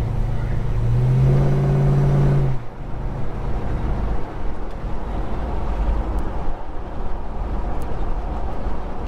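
Holden HK's engine pulling the car along, heard inside the cabin, its ignition timing just advanced: a strong steady drone that rises a little in pitch about a second in, then drops away suddenly at about two and a half seconds, leaving a lower rumble of the car rolling on.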